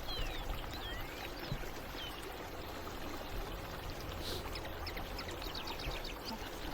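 Creek water running steadily, with a few high chirps in the first second and a fast series of short high notes from about four and a half to six seconds in.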